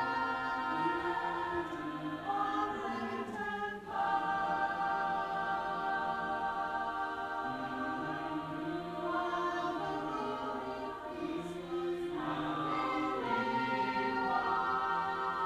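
Several voices singing together in slow, held chords, with short breaks about four and twelve seconds in.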